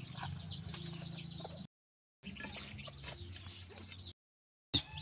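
Many birds chirping in rapid, continuous high short calls over a low steady hum. The sound cuts out completely twice, for about half a second each time, near the middle and near the end.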